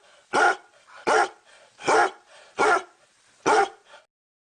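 A dog barking five times in a steady rhythm, about one bark every 0.8 seconds; the sound then cuts off abruptly.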